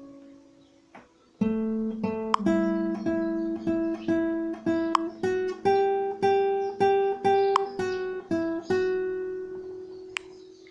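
Acoustic guitar strumming chords in a steady rhythm of about two to three strokes a second, starting after a brief pause about a second in, then ending on one chord left to ring out and fade.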